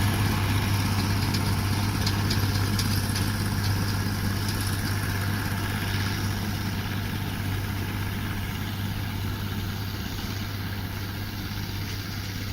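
Allis-Chalmers 190XT tractor engine running at a steady pitch, a low hum that slowly grows fainter.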